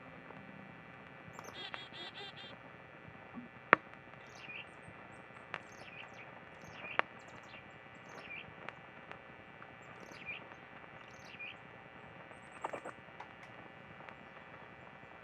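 Garden songbirds chirping: short, high calls repeated every second or two, with a couple of sharp clicks about four and seven seconds in.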